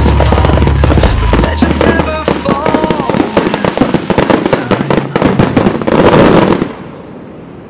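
Aerial fireworks show: dense, rapid crackling and popping over music with a heavy bass beat. The bass drops out about a second and a half in, and the crackle builds to a loud burst near the end before cutting off suddenly.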